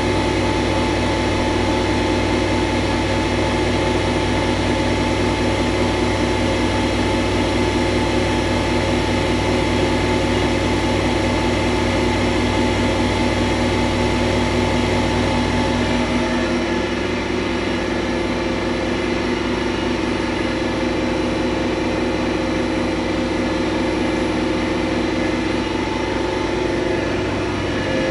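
Machinery running steadily, a dense hum with several steady tones. About sixteen seconds in the deepest part of the hum drops away and the sound settles slightly lower, still running.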